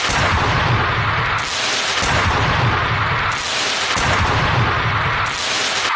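Stage pyrotechnics going off in loud, distorted bangs, swelling about every two seconds over a continuous rumble.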